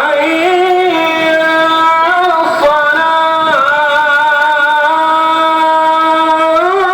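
A solo voice singing long, drawn-out notes that bend slowly between pitches, cutting in suddenly at the start.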